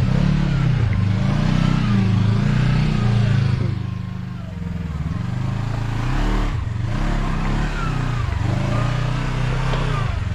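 Side-by-side UTV engine revving in surges as it crawls up a rock obstacle, the revs rising and falling repeatedly, easing off briefly about four seconds in.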